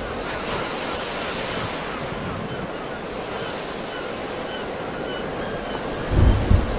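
Sea waves washing steadily on a shore, an even hiss of surf. About six seconds in, a brief gust of wind buffets the microphone.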